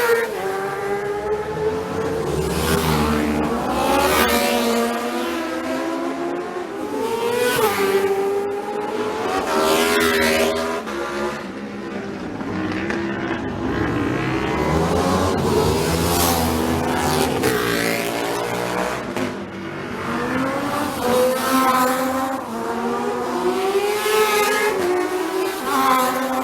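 Racing motorcycles passing close by one after another, several engines heard at once, their notes rising and falling as the riders rev up and shift gears. Loud surges come every few seconds as bikes go past.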